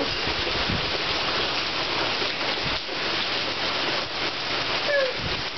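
Heavy rain pouring down steadily in a downpour, a constant hiss of rain on pavement and floodwater.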